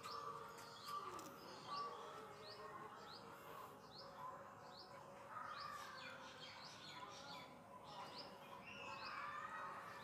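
A small bird chirping over and over, short sharp high chirps about two a second, faint, with fainter lower wavering calls in the background.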